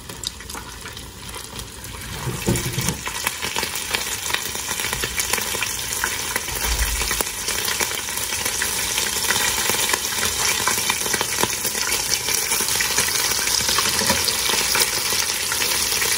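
Rolled chicken-and-cheese tacos shallow-frying in hot oil in a skillet, a dense crackling sizzle. It grows louder from about two seconds in as more tacos are laid into the oil.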